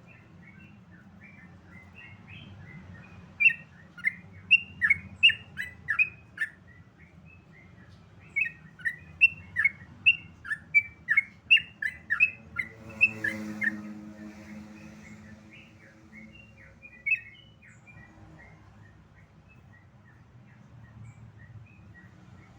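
Yellow-vented bulbul (trucukan) singing in quick runs of loud, sharp chirps: a run of about three seconds, then a longer run of about five seconds, and a single chirp near the end.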